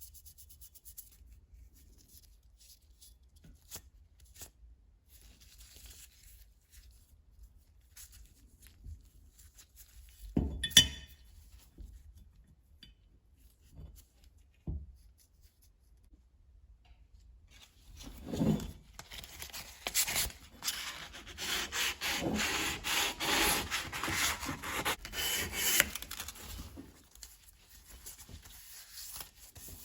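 Light handling clicks and a sharp knock about a third of the way in, then roughly nine seconds of quick, dense rubbing strokes: parts of a brass gasket cutter being worked by hand.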